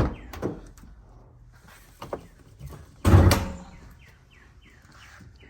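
A loud, heavy thud about three seconds in, with lighter knocks and a click before it.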